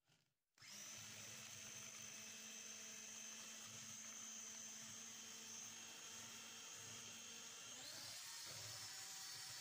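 Electric hand mixer switching on about half a second in and running steadily with a high whine. Its note changes shortly before the end, as at a change of speed.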